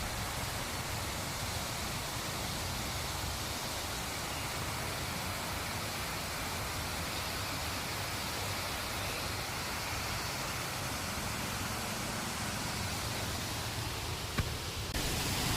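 Waterfall: a steady rush of falling water, an even roar without pauses.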